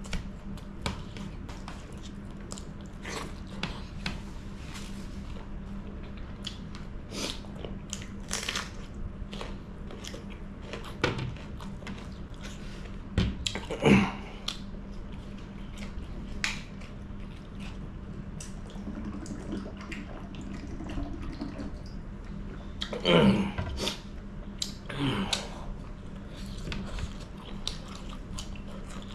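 Close-up eating sounds: wet chewing and lip-smacking as a man eats chicken curry with dry bamboo shoot by hand, with many short smacks and clicks and a few louder wet mouthfuls.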